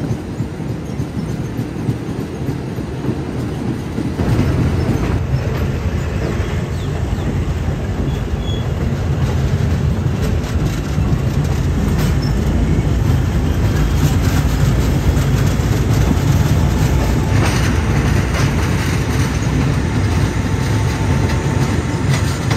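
Passenger train running along the track, heard from aboard a coach: the wheels rumble on the rails with some clickety-clack, getting louder about four seconds in.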